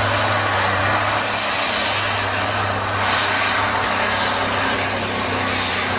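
A pulling vehicle's engine running hard at high power: a loud steady drone with a high, thin whistle held above it.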